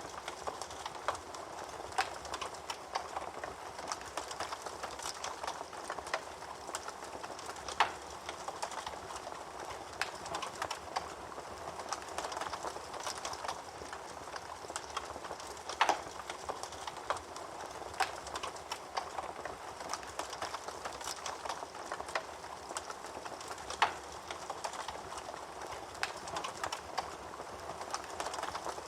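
Wood fire burning in a fireplace: a steady hiss with irregular crackling and a few sharper, louder pops.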